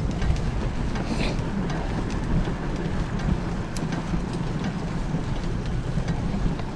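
Wind rumbling steadily on a bike-mounted camera's microphone as the bicycle rides along, with scattered small clicks and rattles.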